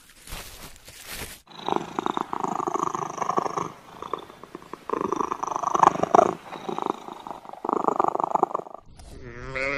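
Domestic cat purring in four long stretches of fast, rough pulsing. A brief rustling hiss comes before the purring, and near the end a lamb starts bleating.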